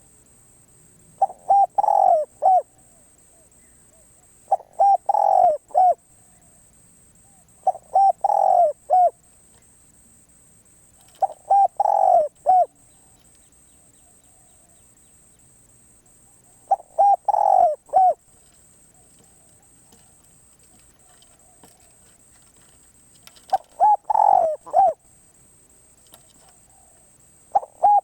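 Spotted dove cooing: repeated short phrases of several low, hollow notes, each phrase about a second long and coming every few seconds.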